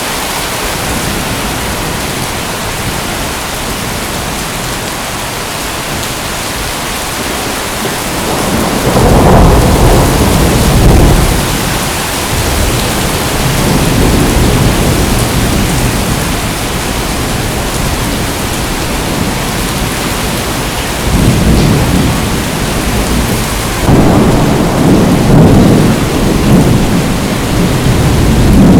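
Steady heavy rain hissing, with deep rolling thunder rumbles that first swell about nine seconds in and return several more times.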